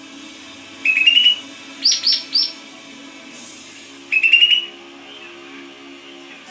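Green leafbird (cucak ijo) singing: three short bursts of rapid, rising chirping notes, about a second in, around two seconds in and about four seconds in, over faint steady background music.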